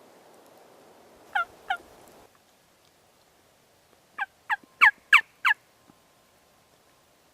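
Wild turkey yelps: two short notes, then a run of five about three seconds later, each note dropping in pitch.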